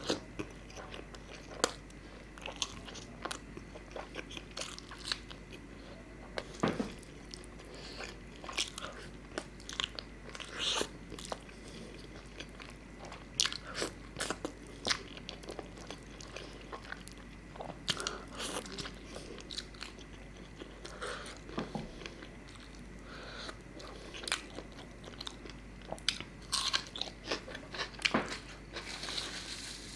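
Close-miked chewing and biting, with irregular wet clicks and crunches: a man eating chicken do pyaza curry with lachha paratha by hand.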